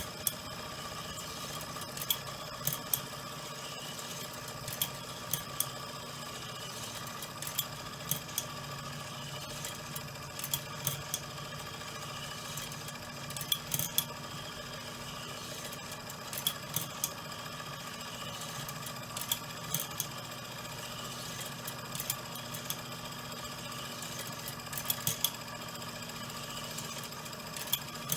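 PM Research Solar Engine #4, a small beta-type model Stirling engine, running steadily with an even mechanical hum, broken by irregular sharp clicks and rattles in small clusters every second or two.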